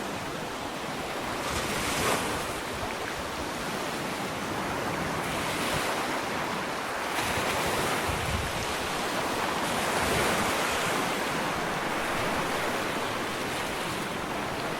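Ocean waves washing onto a sandy shore, a steady surf hiss that swells and eases as each wave comes in, with some wind on the microphone.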